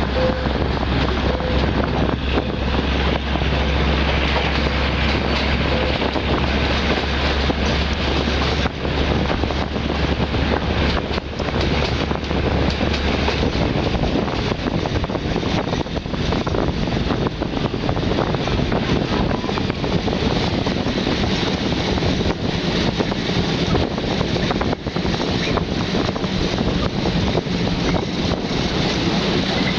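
Diesel-hauled passenger train running through the station: a low steady engine hum that stops a little under halfway through, then the continuous noise of the carriages rolling on the rails.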